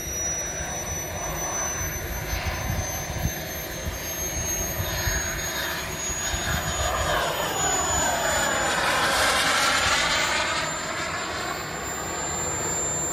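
Radio-controlled model jet's small turbine engine flying past, a steady roar with a high whine that swells to its loudest about nine seconds in and then eases off.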